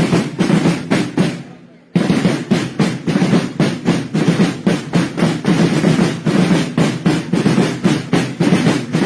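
Parade snare drums played in a rolling march rhythm of rapid, even strokes. The drumming fades about a second and a half in and comes back abruptly just before two seconds.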